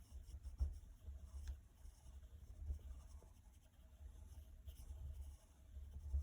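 A pencil or marker is not named, so broadly: a drawing tool scratching softly across paper as a shape is drawn, with faint low bumps from the hand and paper on the desk.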